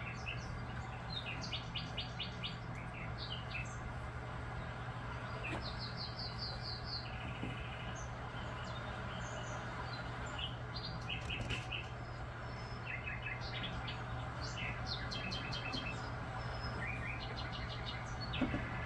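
Birds chirping in scattered phrases of quick, high chirps and short trills, over a steady low hum.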